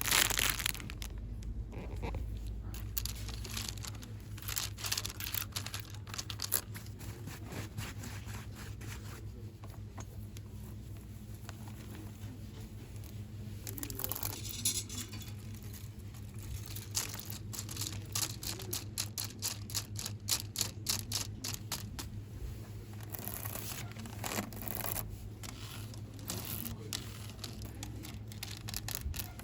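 Close-up ASMR handling of small packaged goods: rustling and crinkling of packaging with runs of quick taps and scratches, quieter for a few seconds partway through and busier later on.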